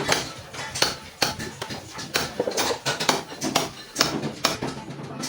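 Irregular sharp knocks and clinks, several a second, like hand tools tapping and clattering on metal.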